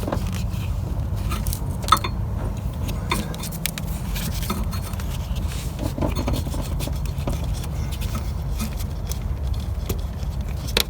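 Scattered light metallic clicks and scrapes of a small nut, washer and hand tools being handled, over a steady low rumble.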